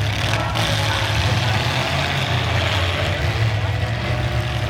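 Demolition derby cars' engines running together, a steady, loud, low rumble with no single crash standing out.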